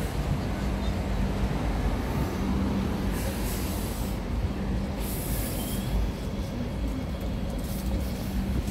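Hong Kong Light Rail Phase 5 two-car train at a stop, a steady low hum and rumble of the tram, with two brief hisses about three and five seconds in.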